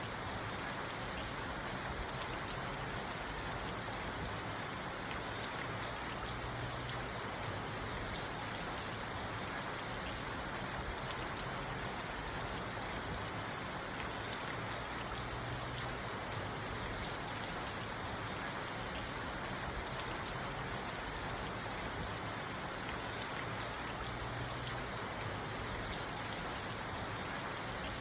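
Steady rain falling on a parked car, heard from inside the cabin: an even wash of rain with fine drop hits on the roof and windows, holding level without thunder.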